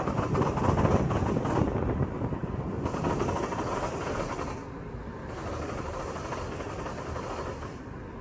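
2004 Ford Freestar minivan driving, with a rapid knocking noise that is loudest over the first few seconds and eases about four and a half seconds in. It is the noise the van makes when accelerating, which replacing the CV axles did not cure.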